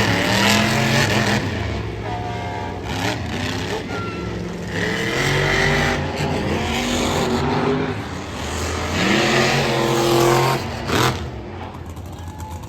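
Monster truck engines revving hard, the pitch climbing and dropping several times.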